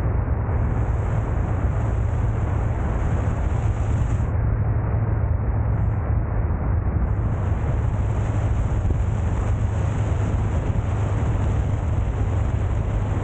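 Steady rushing of a mountain valley stream, a loud even noise with a deep rumble underneath and no breaks.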